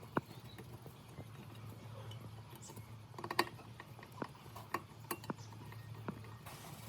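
Scattered light clicks and taps, with a small cluster about three seconds in, over a faint steady low hum.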